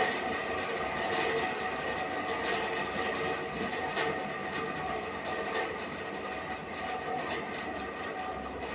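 Sawmill machinery running steadily: a continuous mechanical hum with several held tones, broken by irregular clicks and knocks.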